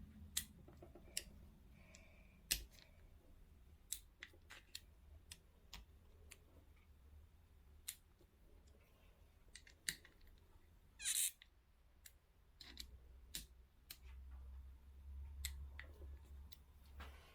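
Faint, irregular sharp clicks of a torque wrench working the ignition cover's small screws, tightened to 5 Nm on a YZ125 two-stroke engine. A louder, longer rasp comes about 11 seconds in.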